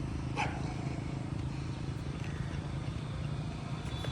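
A steady low mechanical hum, with one brief sharp sound about half a second in.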